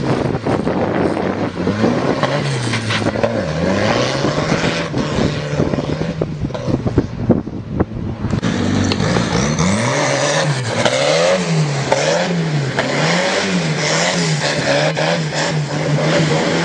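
Turbocharged tractor engine being revved up and down over and over, its pitch rising and falling slowly at first and then in quick, regular swings through the second half.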